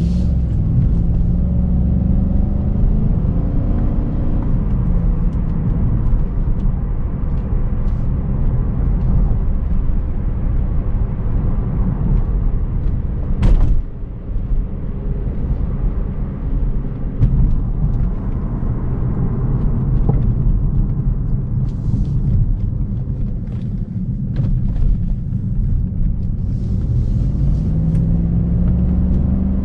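BMW E39 540i's 4.4-litre V8 engine running under way with a steady low rumble. Its pitch rises during the first few seconds and again near the end, and there is one sharp knock about halfway through.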